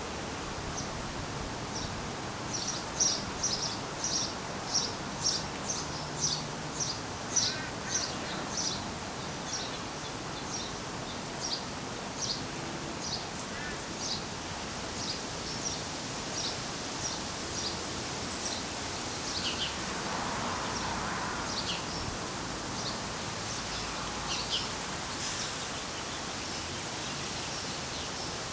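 Small birds chirping: a quick series of short, high chirps, about two a second for several seconds, then scattered calls and a few short falling notes, over steady background noise.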